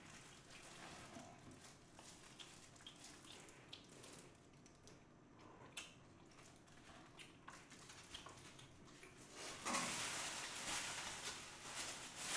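A person chewing food with faint wet mouth sounds and small clicks. About ten seconds in, a louder rustling noise starts and carries on.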